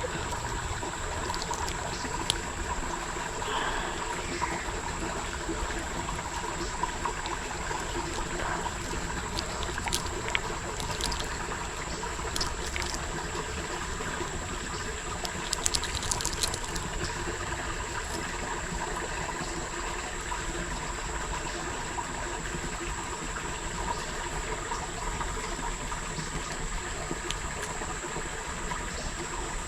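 Creek water trickling steadily, with a thin steady high tone above it and a few faint clicks.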